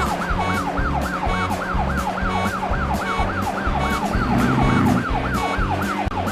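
Cartoon emergency-vehicle siren in a fast yelp, its pitch rising and falling about four times a second, over background music with a steady beat. A brief low rumble comes about four seconds in.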